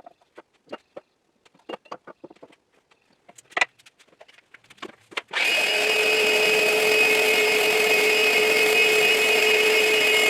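Light taps and clicks of handling on a wooden workbench top, then about five seconds in an electric sander starts up and runs steadily with a constant whine, sanding down high spots on the wood.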